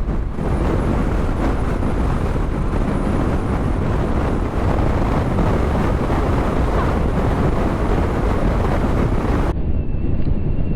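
Strong wind buffeting the microphone of a bike-mounted camera while riding in extreme gusts: a loud, steady rumbling roar. Near the end it turns abruptly duller.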